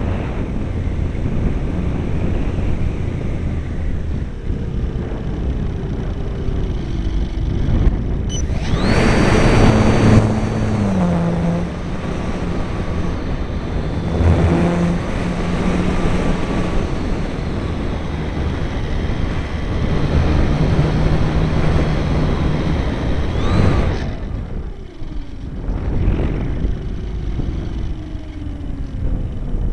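Wind rushing over the microphone, with an RC airplane's motor and propeller running from about a third of the way in and cutting off sharply near the end. While it runs there is a steady high whine, and the propeller pitch dips once or twice.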